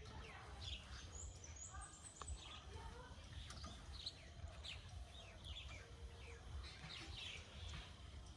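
Birds chirping, many short high calls scattered throughout, over a faint low rumble.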